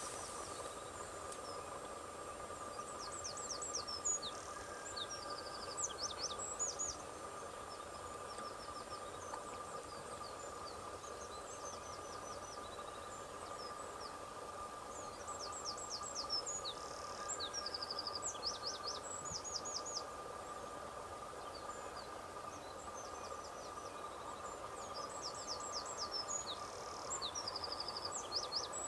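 A songbird singing a phrase of quick high notes and trills three times, about every eleven seconds, over a steady background hum.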